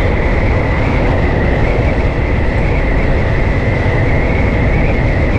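Yamaha FZ V2 motorcycle's single-cylinder engine running steadily while riding, under heavy wind rush on the rider's microphone, with a steady high whistle over it.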